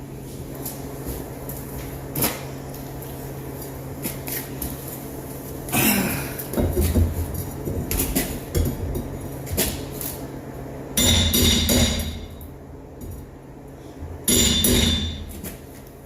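Metal tools and suspension parts clanking and clattering as they are worked and handled, in scattered knocks with louder stretches of clatter past the middle and near the end, over a steady low hum.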